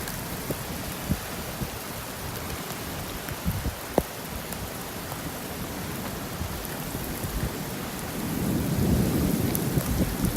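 Steady rain falling, with scattered sharp drop taps and a low rumble swelling up about eight seconds in.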